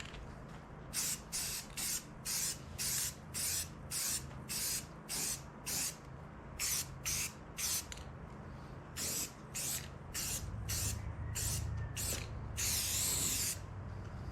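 Aerosol spray paint can hissing in a rapid series of short bursts, two or three a second in runs with brief pauses, then one longer spray of about a second near the end.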